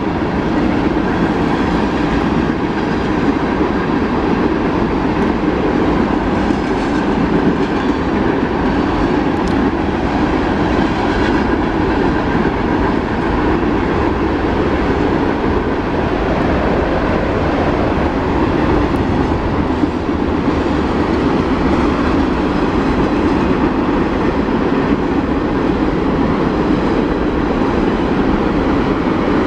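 A long train of empty coal hopper cars rolling steadily past, its wheels and cars making a loud, continuous rumble and clatter on the rails.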